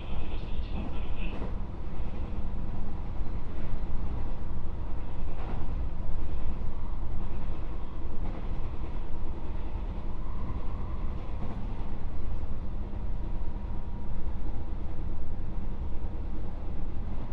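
Running sound of a JR West 221 series electric train, heard from inside the motor car KuMoHa 221-67: a steady low rumble of the wheels on the rails, with a few faint clicks.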